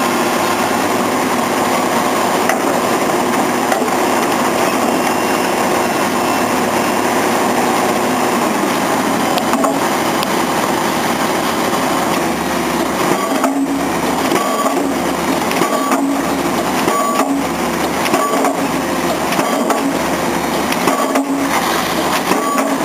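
Pile-driving rig driving concrete piles: machinery runs steadily throughout. From about halfway in, hammer blows fall at an even beat of roughly one a second.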